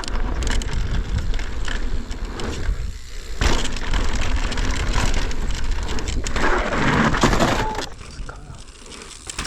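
Mountain bike riding down a dirt trail: tyre noise and rattling over rough ground under heavy wind buffeting on the microphone, with a sharp knock about three and a half seconds in.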